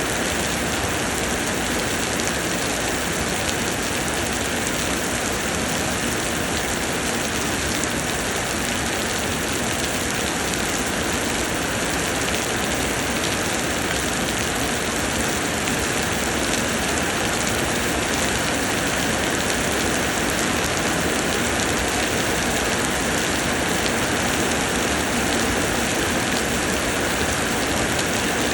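Steady heavy rain pouring down, an even continuous hiss of drops with no let-up.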